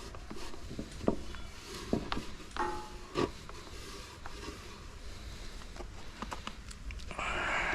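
Scattered light knocks and taps from handling a plywood transom board being coated, with a stretch of rubbing near the end.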